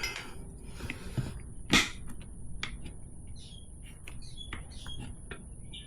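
Small birds chirping in short scattered calls, with several sharp clicks and knocks from handling, the loudest about two seconds in.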